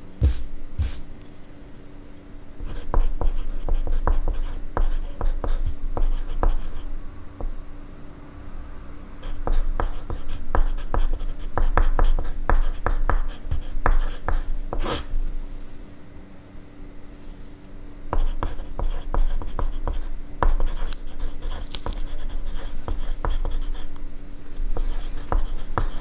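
Pencil writing on paper: runs of quick scratchy strokes broken by short pauses, with a single sharp tap about halfway and a steady low hum underneath.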